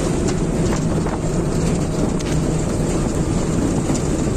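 A motor running steadily under heavy wind rumble on the microphone.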